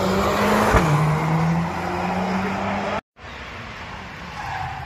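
Race car engine pulling hard through a chicane, its pitch climbing, then dropping just under a second in and holding steady, with tyre and road noise. The sound cuts off abruptly about three seconds in and is followed by a quieter, lower engine hum.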